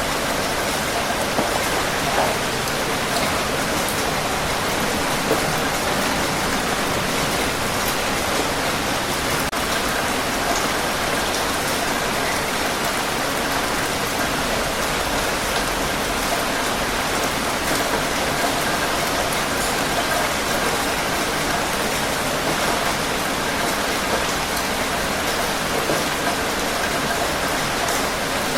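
Steady heavy rain falling on surfaces, an even hiss with scattered drop patter.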